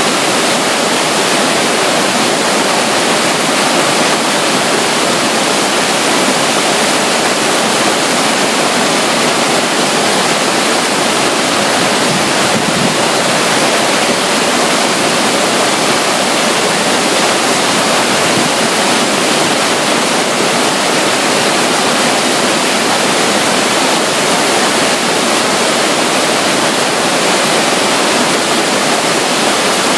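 Running water: a small flow of water beside a river near a waterfall, making a loud, steady, even rush with no breaks or changes.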